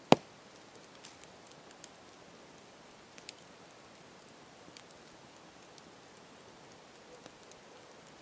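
Campfire crackling: a steady soft hiss with scattered snaps, one sharp loud pop right at the start and a couple of smaller pops about three seconds in.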